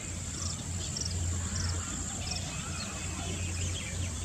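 Outdoor wetland ambience: small birds giving short, high chirps every half second or so, over a steady high hiss and a low rumble.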